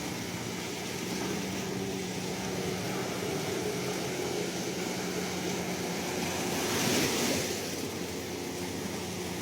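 Ocean surf: a steady wash of waves, with one wave breaking louder about seven seconds in. A faint steady low hum runs underneath.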